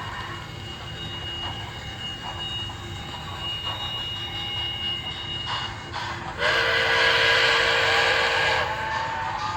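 MTH model Berkshire steam locomotive sound systems with the trains running on the track, then a steam whistle blown loud and steady for about two seconds, starting about six and a half seconds in.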